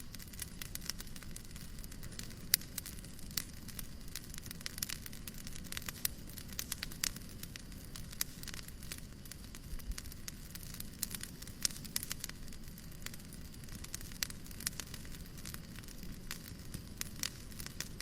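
Fireplace crackling: irregular sharp pops and snaps, several a second, over a steady low rumbling hiss.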